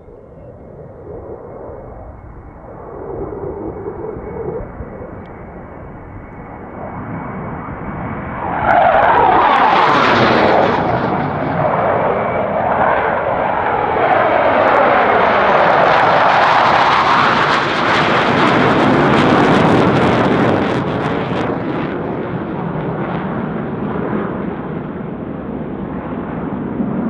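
Military jet flying past at an airshow. Its engine noise builds from a distant rumble, jumps to a loud, sweeping roar about nine seconds in, holds for about twelve seconds, then slowly fades.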